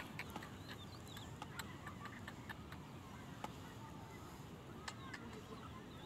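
Faint chirps of small birds and scattered sharp clicks over a steady low outdoor hush.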